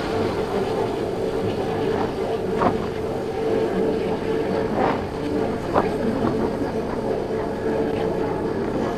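A 50cc scooter's engine running at a steady cruise, heard as one even hum over a constant rush of road and traffic noise. It is broken by three short sharp sounds in the middle of the stretch.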